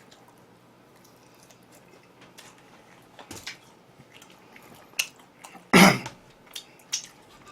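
A person eating close to the microphone: quiet chewing with scattered small clicks and smacks. One louder short burst comes about two-thirds of the way in.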